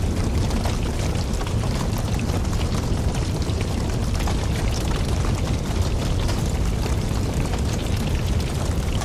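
Campfire burning: a steady low rumble of flames with frequent small crackles and pops of the burning wood throughout.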